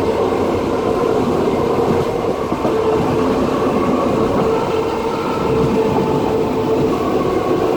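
Passenger train carriage rolling along the track, heard from inside: a steady rumble of wheels on rails with a constant humming tone over it.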